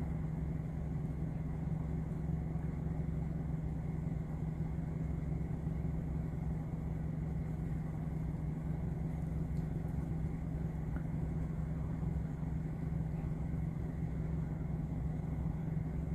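Car engine idling: a steady low hum with rumble.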